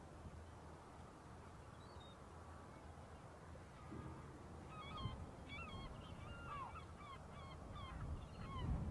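Faint wetland ambience with a low rumble of wind; from about five seconds in, birds give a run of short calls, two or three a second.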